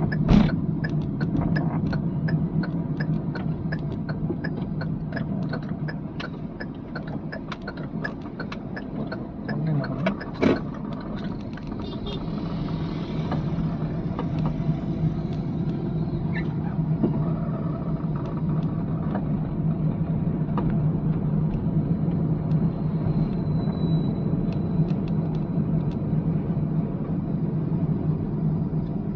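Car engine running with a steady low hum as the car drives. Over about the first ten seconds there is a fast, regular ticking, which fits the turn indicator the instructor has just mentioned. A single loud knock comes about ten seconds in.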